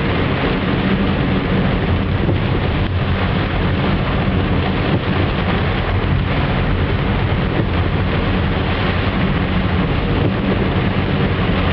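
Heavy rain and a car driving through it: a steady rushing noise over the even low hum of the engine and tyres, with no change throughout.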